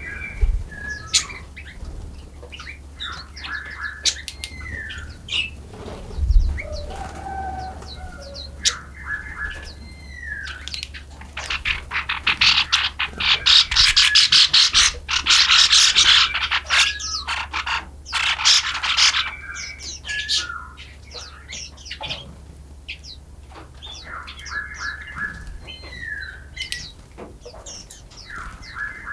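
Several small forest songbirds chirping, with repeated short down-slurred notes and a dense, rapid chattering stretch in the middle, over a steady low hum.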